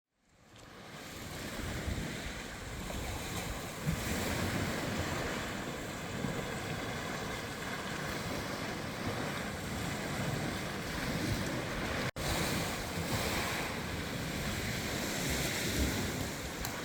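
Steady rush of flowing river water, with wind buffeting the microphone. It fades in over the first two seconds and drops out for an instant about twelve seconds in.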